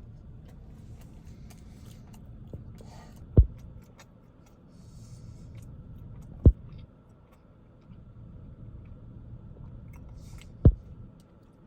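Quiet chewing and mouth sounds from eating a fast-food sandwich, with three short, dull thumps spread out a few seconds apart.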